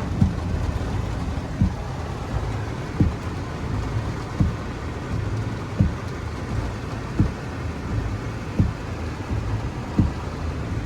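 Heavy thunderstorm rain drumming steadily on a car, heard from inside the cabin, over the low hum of the running car. The windshield wipers thump at the end of each sweep, about every one and a half seconds.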